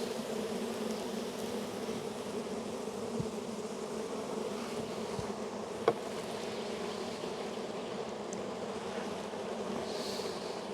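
Steady hum of a crowded colony of honey bees around an opened hive, with a couple of faint clicks about three and six seconds in.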